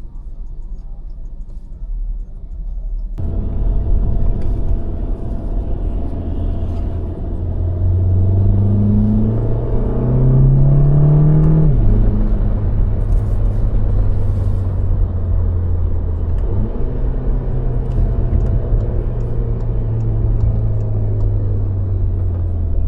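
A 2015 Volkswagen GTI's turbocharged 2.0-litre four-cylinder (EA888), running on an EQT Stage 1 tune with an open intake, drives steadily. Its note rises under acceleration, drops abruptly about twelve seconds in as the revs fall, then settles into a steady cruise.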